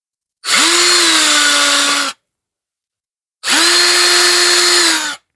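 Electric drill running in two separate bursts of under two seconds each, drilling screw pilot holes. Each burst spins up quickly to a steady pitch.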